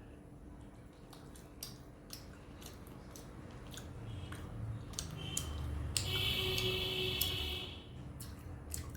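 Close-up eating sounds of rice and chicken curry: soft squishing and chewing with scattered small clicks, busiest a little past halfway.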